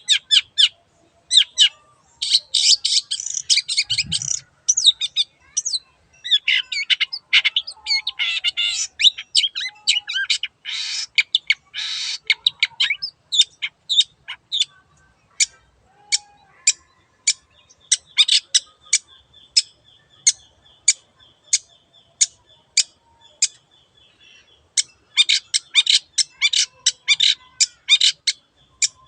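Long-tailed shrike (cendet) singing: runs of dense, harsh chattering alternate with strings of single sharp notes, about two a second, in the middle.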